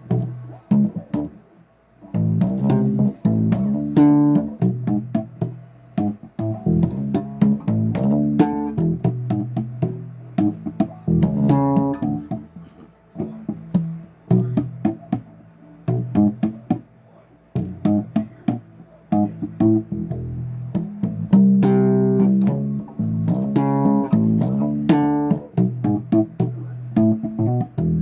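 Electric bass guitar played solo, a run of plucked and picked notes and riffs in the low register with sharp attacks and short pauses between phrases.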